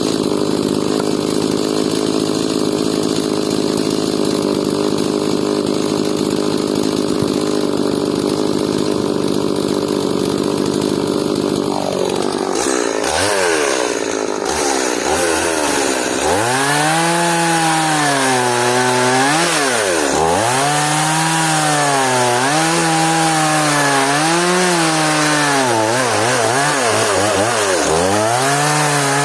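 Stihl MS180 two-stroke chainsaw cutting hard elm. It runs steadily at high speed at first, then about twelve seconds in its pitch drops and from then on rises and falls every second or two, dipping deeply twice, as the chain works through the wood.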